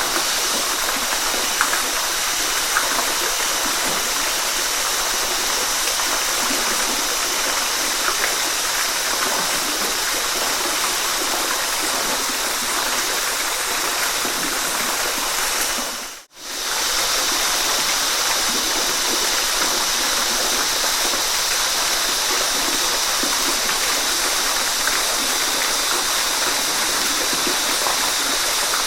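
Waterfall rushing steadily. About 16 seconds in, the sound fades out for a moment and comes straight back in.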